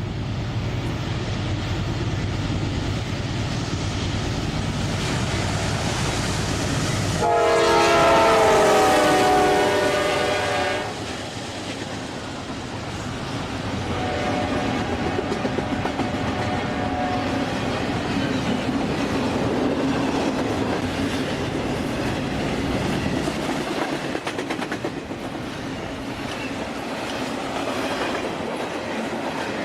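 A train going by: a low engine rumble, then a loud locomotive air horn sounding a chord of several notes about seven seconds in for some three seconds, a fainter horn note a few seconds later, and the rolling cars' wheels clicking and rumbling over the rails.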